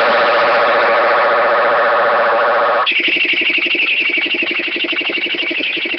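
Computer text-to-speech voice drawing out a long, buzzy, droning sound. About three seconds in it switches abruptly to a different held sound.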